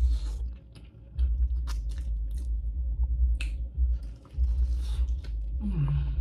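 Close-miked eating: chewing and biting with many short wet mouth clicks and crunches as a piece of fried fish is eaten. A deep rumble comes and goes underneath, and a short falling hum sounds near the end.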